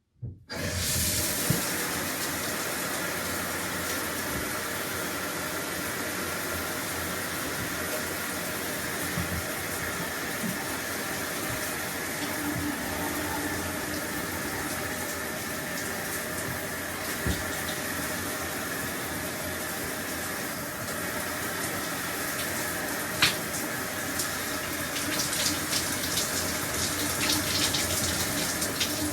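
Shower running: water comes on suddenly about half a second in and then sprays steadily, with a few sharp ticks and more spattering near the end.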